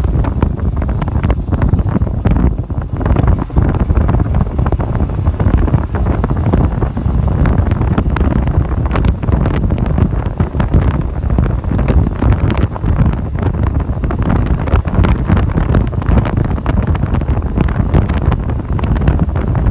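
Heavy wind buffeting the microphone: a loud, gusting rumble that rises and falls in quick, uneven surges.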